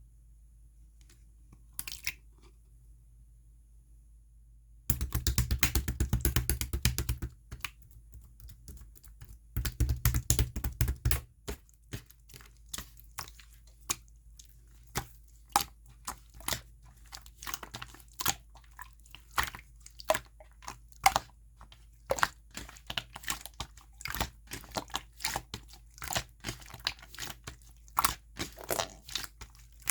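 Clear slime being squeezed and stretched by hand, crackling and popping with sticky clicks. Two dense runs of crackling come about five and ten seconds in, followed by single pops about one or two a second.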